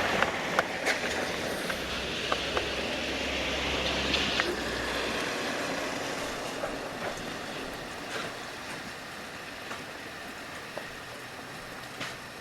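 Thunder rumbling low and slowly fading away, with a few scattered clicks.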